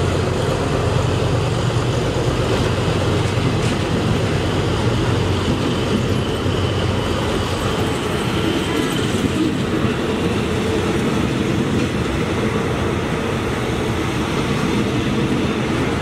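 Passenger train coaches running past on the next track, heard through an open carriage window: a steady, loud noise of wheels on rail, with a low hum that fades about five seconds in.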